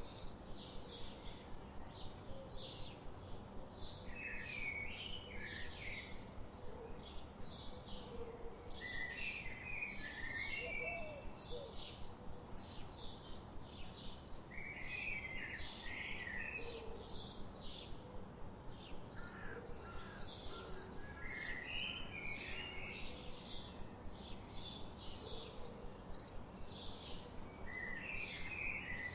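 Songbirds chirping: a fast, continuous run of short high chirps, with a lower warbling phrase breaking in every few seconds, over a steady background hiss.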